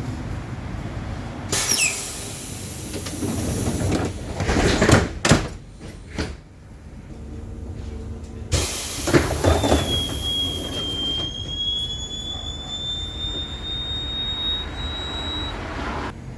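Doors of a KVB light-rail car operating: a falling high tone as they start to move, then several hard thuds as they shut, followed by a hiss and a single high whine that rises slowly for several seconds.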